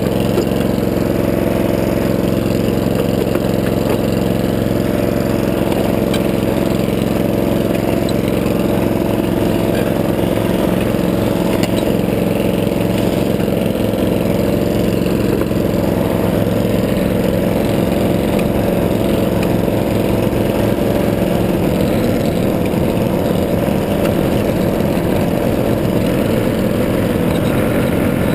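Small gasoline engine running steadily at a constant speed, its firing pulses even throughout, with a shift in tone around two thirds of the way through.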